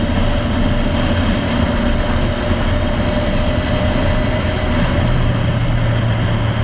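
A motorcycle's engine running steadily under way, with wind and road noise on a helmet-mounted camera's microphone; the low engine note grows stronger near the end.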